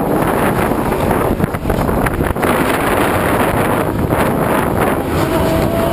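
Wind buffeting the microphone over the steady drone of off-road race truck engines running around the track.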